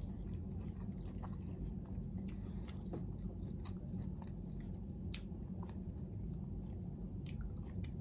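A person chewing fried shrimp close to the microphone: soft, irregular crunches and small mouth clicks.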